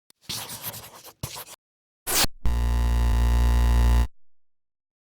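Electronic intro sound effects: crackly, scratchy noise bursts, a short hit, then a loud steady low synth drone for about a second and a half that cuts off suddenly.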